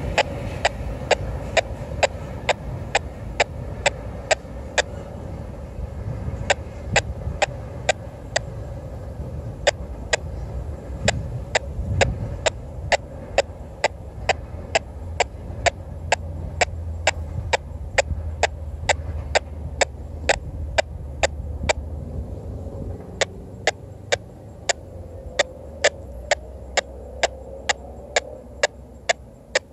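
Intermodal freight train cars rolling past, their wheels clicking sharply over the rail joints about twice a second over a steady low rumble.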